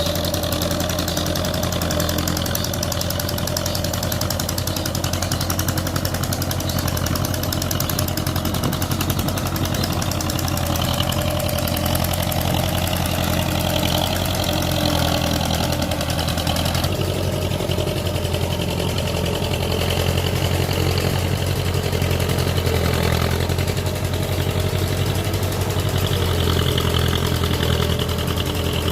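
MTZ Belarus tractor's diesel engine running steadily, its tone shifting a little past halfway.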